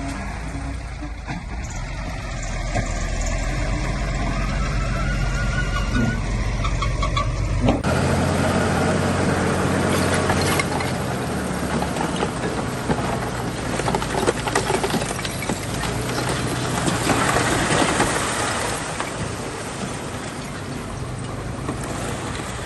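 Bulldozer's diesel engine running at a steady pitch; about eight seconds in the sound changes abruptly to a louder, noisier rumble full of small crunching clicks, typical of the machine working stone and dirt.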